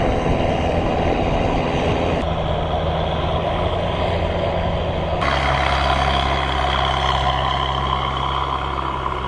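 Longtail boat engines running loud and unmuffled, a steady heavy drone. The engine note changes abruptly twice, about two and five seconds in.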